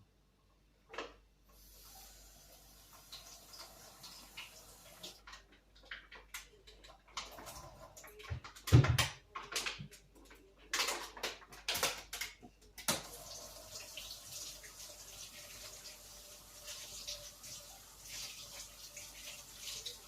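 Water running steadily from a tap, with a series of knocks and clatters in the middle and one loud thump about nine seconds in.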